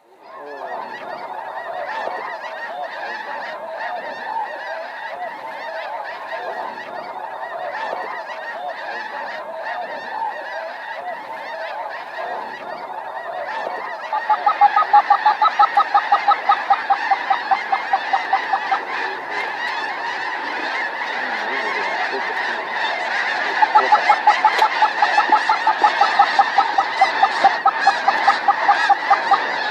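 A large flock of snow geese calling, a dense continuous chorus of honking. Twice, about halfway through and again near the end, a louder run of fast, evenly spaced calls stands out above the chorus.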